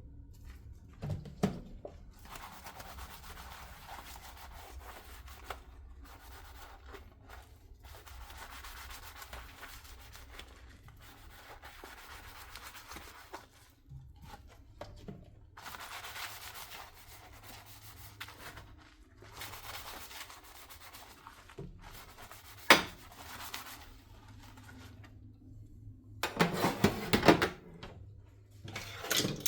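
Dishes being scrubbed by hand with a soapy sponge, in stretches of a few seconds with short pauses between them. There is a sharp knock about three-quarters of the way through, and a louder clatter of dishes near the end.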